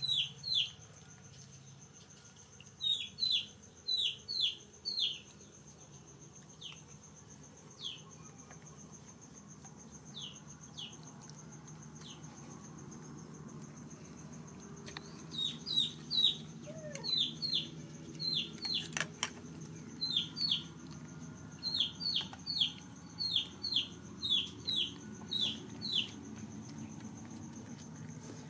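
Bird chirps: runs of short, high calls that drop in pitch, several a second, coming in groups, over a steady high insect drone. One sharp click sounds about two-thirds of the way through.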